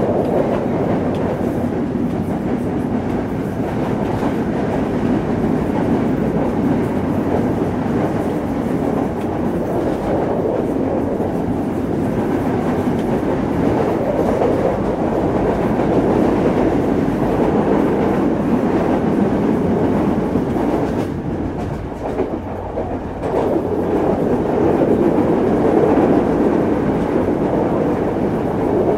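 Sri Lankan passenger train running along the track, a steady loud rumble of wheels on rail, heard from the open side of a carriage. The noise dips briefly about three-quarters of the way through, then returns.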